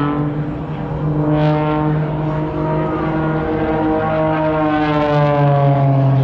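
Propeller-driven aircraft engine running with a steady, loud drone, its pitch falling slightly near the end.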